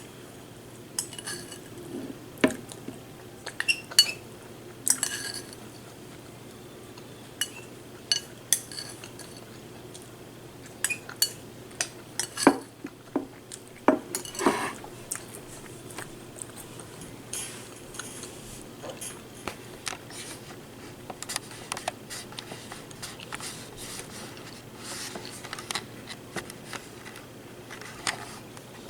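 Metal spoon clinking and scraping against a cereal bowl in irregular strikes, with softer crunching of cereal being chewed between them.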